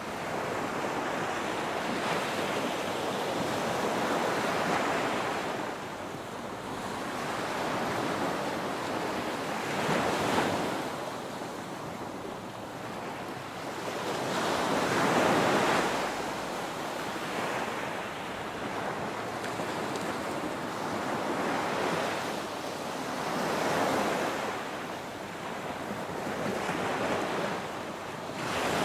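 Ocean waves breaking and washing up a beach, a continuous surf noise that swells and eases as each wave comes in every few seconds.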